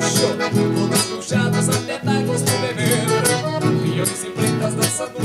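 Accordion and guitar playing an instrumental dance tune, the chords pulsing in a steady rhythm.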